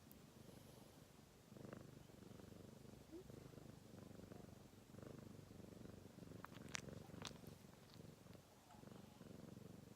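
Domestic cat purring close by, a faint low rumble that swells and eases in stretches, with a few small clicks about two-thirds of the way through.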